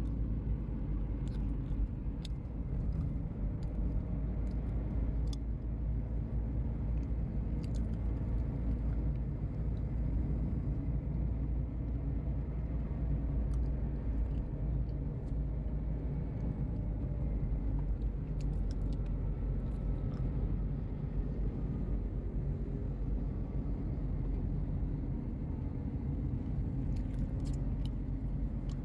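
Passenger ferry's engines heard on board: a steady deep rumble with the drone of the vessel under way, unchanging throughout.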